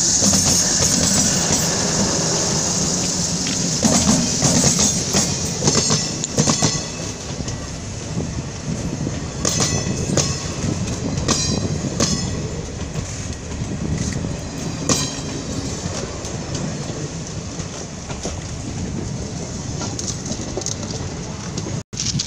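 Diesel-electric multiple unit (DEMU) passenger train running past at close range: a loud, steady rumble of wheels on the rail with a high hiss in the first few seconds, and repeated sharp clicks of wheels on the track through the middle.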